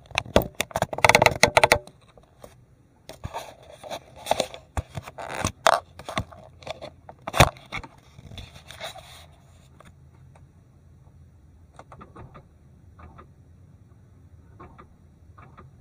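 A Ford Fiesta that is hard to start: loud, irregular clattering and scraping for the first several seconds, then a low, steady engine hum from about halfway through as the engine runs.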